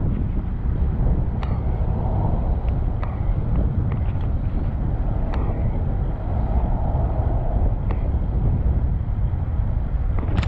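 Steady low rumble of wind on the microphone of a moving bicycle, with passing city traffic and scattered light clicks and rattles.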